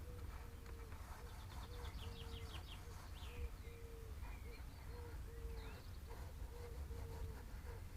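Garden songbirds chirping, with quick runs of high notes, over a steady repeating pattern of short and longer low tones and a low rumble.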